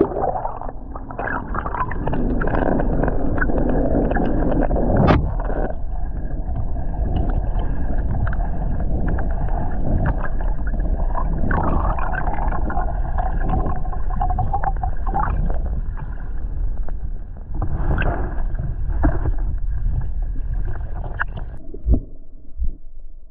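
Heavy rainstorm noise: rough, rushing water and wind buffeting the microphone, with a low rumble and several sharp knocks, the loudest about five seconds in.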